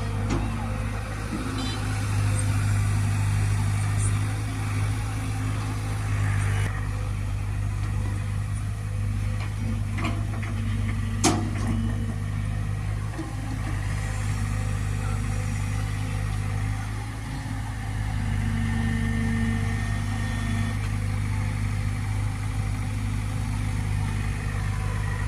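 Diesel engine running steadily at a constant low speed, with one sharp knock about eleven seconds in.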